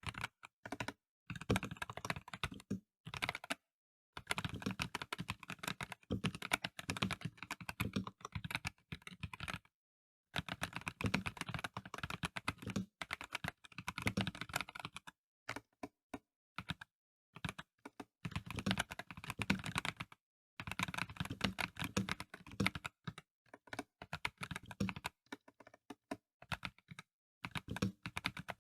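Typing on a Dareu A98 Pro mechanical keyboard with VioletGold Pro non-clicky switches: fast, dense runs of keystrokes in bursts of a few seconds, with brief pauses between them.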